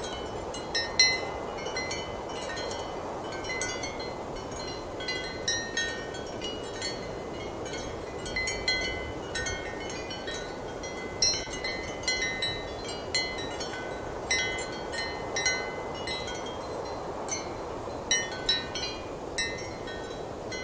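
Ceramic wind chimes clinking irregularly in gusting wind, short ringing knocks at several pitches over a steady rush of strong wind.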